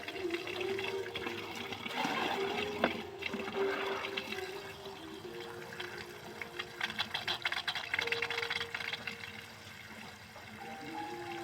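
Water running, with a faint wavering tone underneath.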